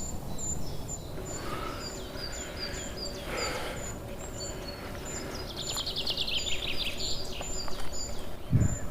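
Wild birds calling: a short high-pitched note repeats about twice a second over lower downslurred notes, and a fast trill falls in pitch about six seconds in. A low rumble runs underneath, and a dull thump comes near the end.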